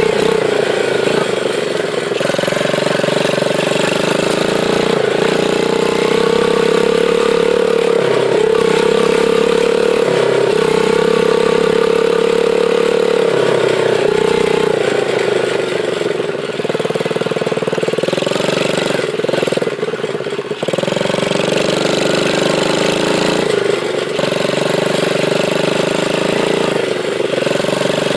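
Small dirt bike engine running as the bike is ridden, its note rising and falling in steps with throttle and gear changes, with a short easing-off about twenty seconds in.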